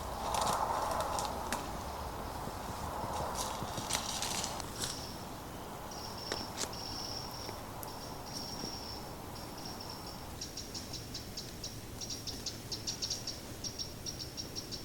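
Footsteps crunching and rustling over the forest floor for the first few seconds. Then a thin, high-pitched sound is held in segments of about a second, turning into a fast, rapid trill near the end.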